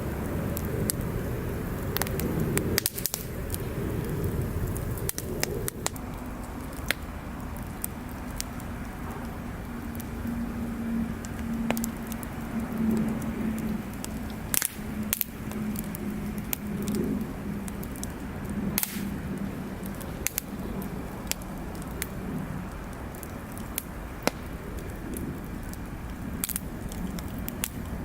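Wood campfire burning, with frequent sharp crackles and pops from the burning wood over a low rumble. A steady low hum runs through the middle.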